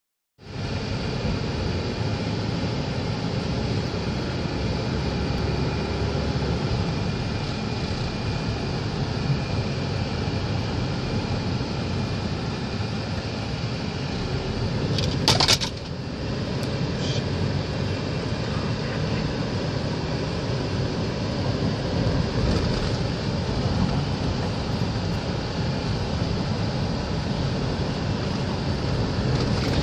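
Storm wind and rain making a steady, rumbling roar, with a brief sharp crackle about halfway through.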